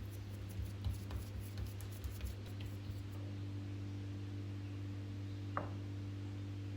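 Light handling taps and small clicks, a cluster of them in the first half and one sharper tap near the end, over a steady low hum.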